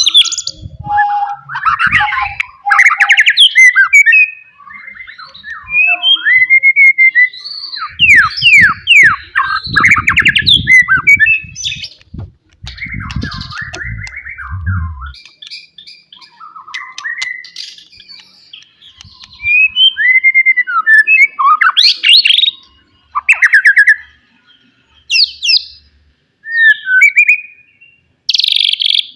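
White-rumped shama singing a loud, varied song of whistled phrases, sweeping glides and fast trills, broken by short pauses. Low knocking runs under the song in the middle.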